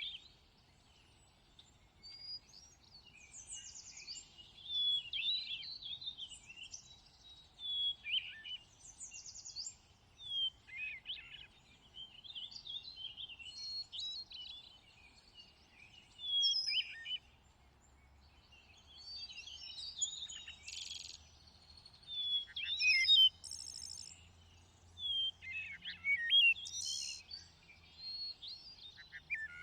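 A thrush singing: a string of short, varied whistled phrases, each a second or less, separated by brief pauses, with some high buzzy notes mixed in.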